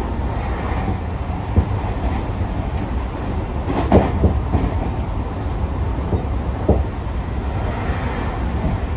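Tobu 60000 series electric train running, heard from inside the carriage: a steady low rumble of wheels on rail, with a few sharp clacks as the wheels pass over rail joints, the loudest about four seconds in.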